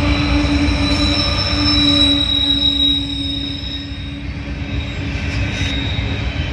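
Freight train rolling past, its wheels squealing in steady high tones over a low rumble of the cars. It eases off a little about three seconds in.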